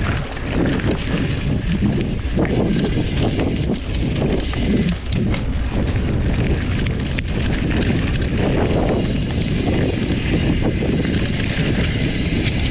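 Mountain bike riding down a dirt trail: wind buffeting the microphone over the tyre noise, with many small rattles and knocks from the bike.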